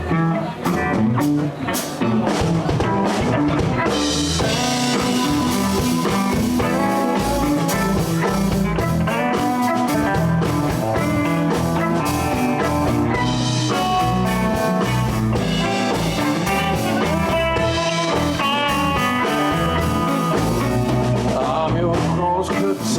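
Live blues band playing an instrumental passage, with drum kit, bass and guitar under a sustained melodic lead line.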